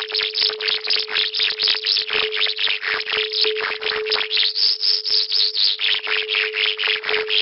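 Electronic tone track: one steady tone under a hiss that pulses in an even rhythm, about four to five beats a second.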